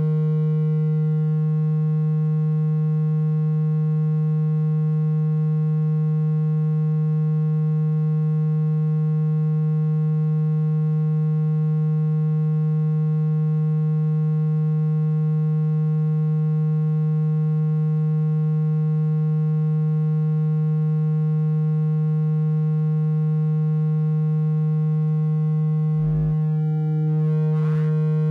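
Low, steady, electronically generated tone used to vibrate water out of a phone or earphone speaker, holding one pitch with buzzy overtones. It is broken by two brief clicks near the end.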